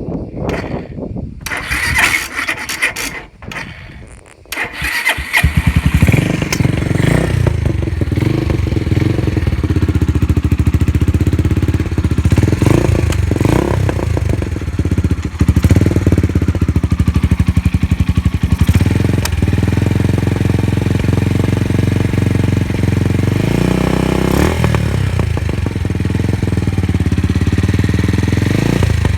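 Suzuki Grasstracker's single-cylinder four-stroke engine cranked in short bursts, catching about five seconds in. It then idles loud and steady through a Supertrapp 4-inch megaphone full exhaust, with a few brief throttle blips, and runs without abnormal noises, as the seller states.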